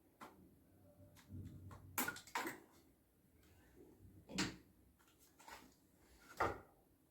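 A few sharp knocks and clatters of parts and tools being handled during washing machine repair work. The loudest come about two, four and a half, and six and a half seconds in.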